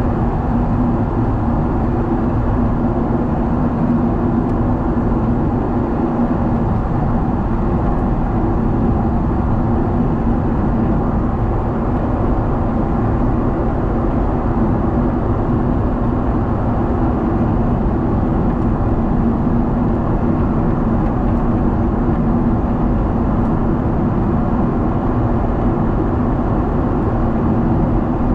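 Boeing 777 cabin noise in cruise flight, heard from inside the cabin: a steady roar of jet engines and airflow with a constant low hum, unbroken and even in level.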